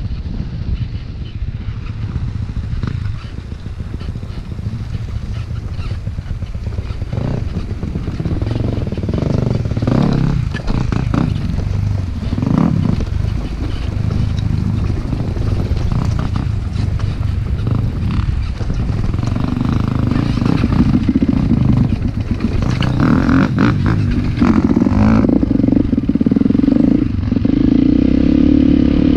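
Motocross motorcycle engines running and revving, getting louder toward the end, when one engine holds a steady high note.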